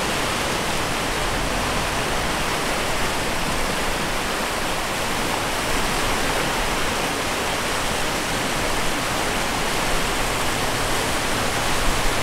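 Avon Lwyd river in flood, fast water rushing in a steady, unbroken torrent.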